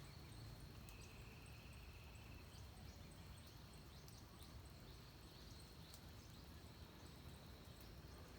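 Faint dawn forest ambience: a steady high insect-like hum with an even rhythm of very high ticks, scattered short bird chirps, and a brief trill about a second in, over a low distant rumble.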